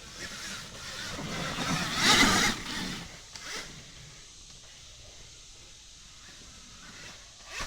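Alta Redshift electric dirt bike riding past close by: a rushing mix of motor whine and tyre noise on dirt, with no engine note, that swells to a loud peak about two seconds in and quickly fades.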